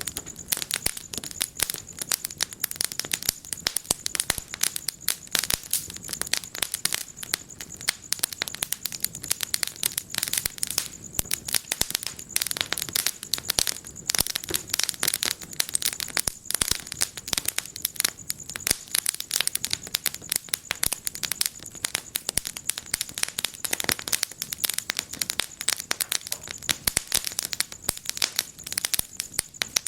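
Wood fire crackling in a fireplace: a dense, irregular run of sharp pops and snaps that never lets up.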